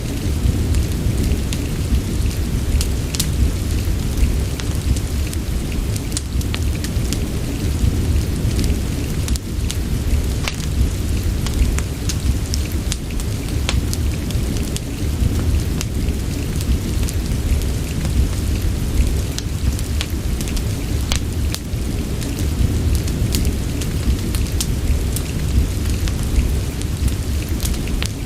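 Steady rain with a deep, continuous rumble underneath and scattered sharp crackles and ticks throughout.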